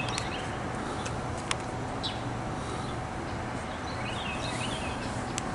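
Steady low outdoor rumble with small birds chirping, most around four to five seconds in, and a few sharp clicks.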